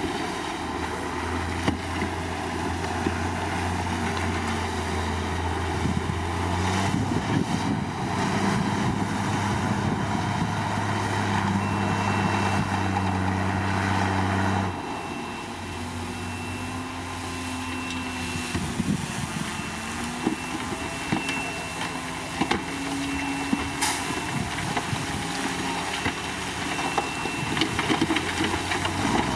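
Crawler bulldozer's diesel engine running under changing load. Its pitch steps and glides several times, dropping a little about halfway and rising again near the end, over scattered short knocks.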